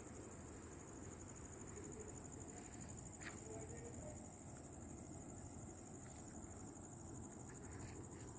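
Faint, steady high-pitched chirring of crickets over a low background rumble, with a single short click about three seconds in.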